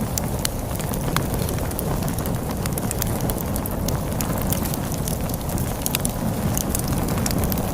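Wood fire crackling, with frequent small sharp pops and snaps, over a steady low rush of storm wind.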